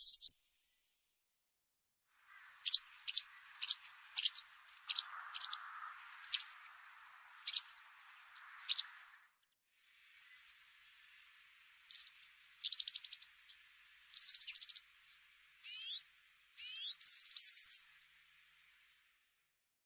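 Small songbird calling: a run of sharp, high chips at irregular intervals, then after a short break a string of trills and quick rising sweeps.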